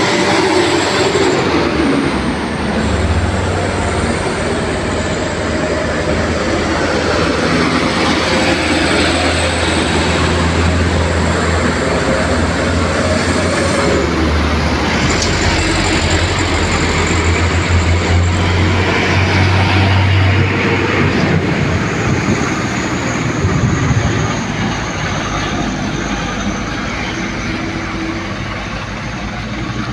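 Heavy truck traffic passing close by: a loaded sugarcane truck's diesel engine drones low, with road and tyre noise. The drone holds until about two-thirds through, then fades.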